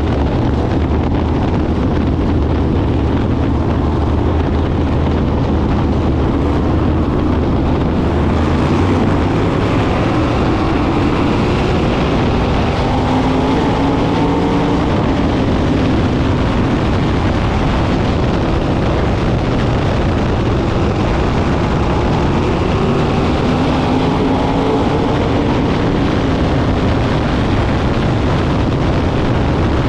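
Sprint cars' V8 engines racing at speed, a loud steady drone whose pitch sweeps up and down as the cars pass, with a heavier low rumble over the first several seconds.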